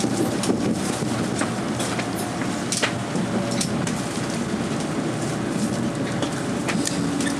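Tokaido Shinkansen train running into the station, a steady rolling rumble of wheels on rail with scattered sharp clicks, and a steady low tone setting in near the end.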